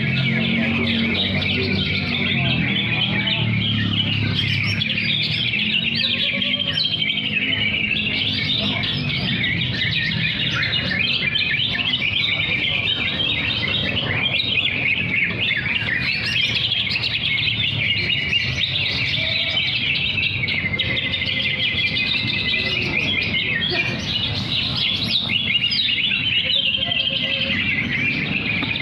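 Green leafbirds (cucak hijau) singing nonstop, a fast, varied chattering song without pauses, several birds competing against each other.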